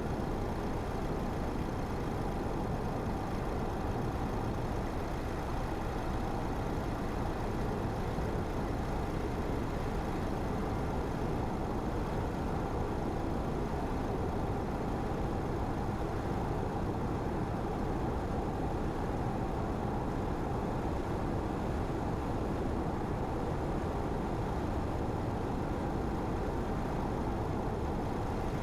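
A car driving at a steady speed: a constant hum of engine and tyre noise on the road, without change.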